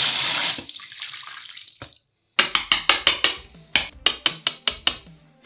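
A faucet turned on, water gushing out in a loud rush for about two seconds. Then background music with a sharp percussive beat starts.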